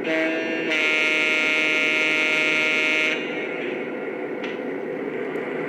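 Diesel horn from a Lionel Legacy E6 model locomotive's onboard sound system. A short note is followed by one long blast of about two and a half seconds that cuts off about three seconds in. A steady hiss and rumble runs underneath.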